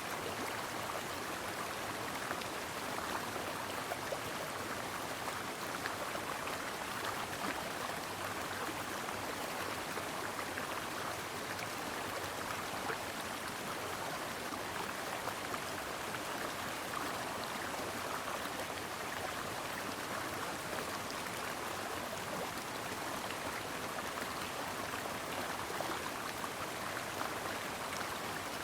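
Stream water flowing steadily, an even rush of running water with no breaks.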